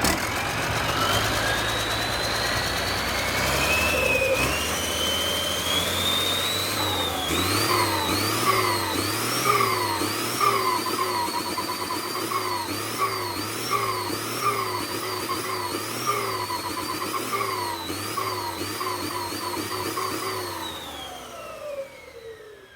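Engine revving repeatedly, with a high whine that climbs over the first several seconds, then rises and falls about once a second with each rev, and winds down near the end.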